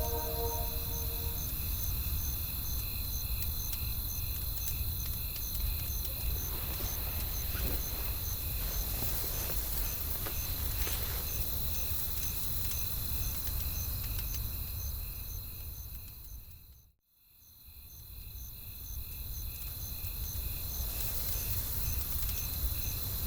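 Night forest ambience: crickets chirping in an even, steady pulse over a low rumble of wind, with a few faint campfire crackles. About two-thirds of the way through, the whole sound fades out almost to silence and then fades back in.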